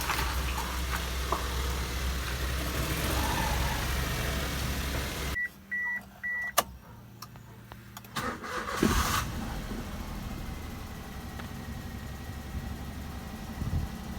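Maruti Suzuki K-series car engine running, then it goes quiet. Three short high beeps and a click follow, and about eight seconds in the engine starts and settles into a steady idle.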